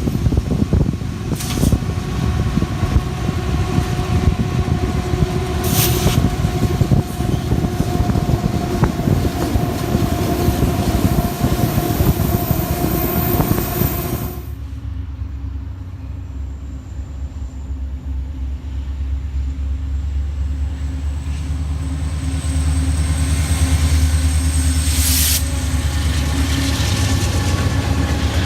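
Train running past on the rails, a dense rumble with steady ringing tones over it. About halfway in the sound changes abruptly to a deeper, quieter rumble that grows louder as a train approaches.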